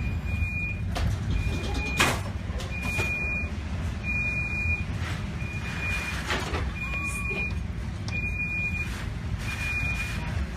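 An electronic alarm beeping at one steady pitch, about once every 1.3 seconds, eight times, over a loud steady low rumble.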